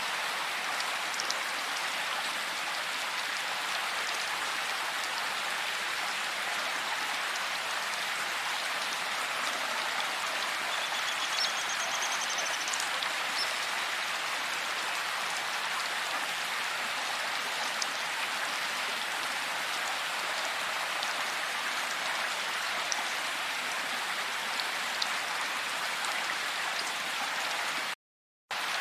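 Steady heavy rain falling, an even hiss of drops with no thunder. A faint high chirp comes briefly about eleven seconds in, and the sound cuts out for about half a second near the end.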